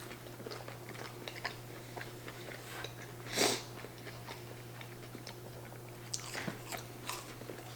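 Close-up chewing and biting of breaded chicken nuggets: many small wet clicks of the mouth, with one louder bite or crunch about three and a half seconds in and a few more near the end.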